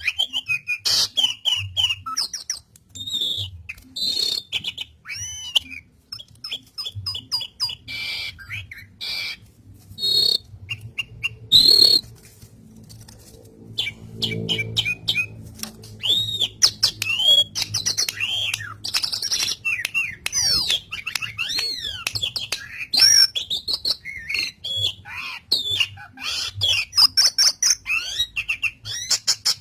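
Asian pied starling (jalak suren) singing vigorously, a long, busy run of varied whistles, chirps, clicks and harsh notes, with a brief lull about halfway through.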